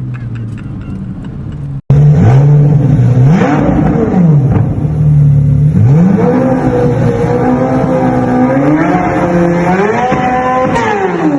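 Corvette C8 Z06's flat-plane-crank V8 through a LeMans Edition track exhaust. It runs quieter with a falling pitch, then, after a sudden cut about two seconds in, it is much louder and revving, its pitch rising and falling again and again.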